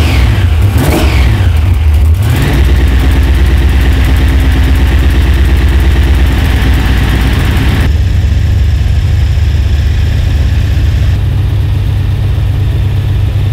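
Supercharged all-iron Pontiac V8 in a 1974 Firebird, just fired up after a reluctant start. It revs up and down in the first couple of seconds, then runs at a loud, steady idle that settles lower about eight seconds in.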